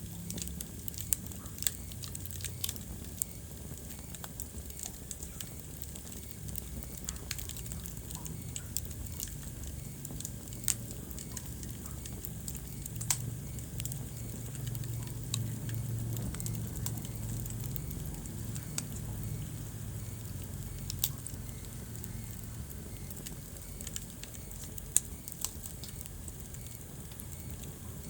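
Wood fire burning in a fireplace: irregular sharp crackles and pops over a steady low rumble of the flames, which swells a little midway.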